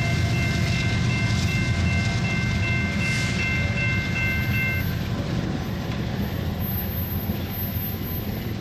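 Tank cars of a unit oil train rolling past: a steady low rumble of wheels on rail. Several thin, high ringing tones stop about five seconds in, and the sound eases slightly toward the end.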